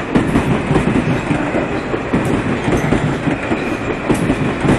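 Metro-North M8 electric multiple-unit train passing through the station at speed without stopping: a steady, loud rumble of wheels on rails with a rapid, irregular clatter of the wheels over the track.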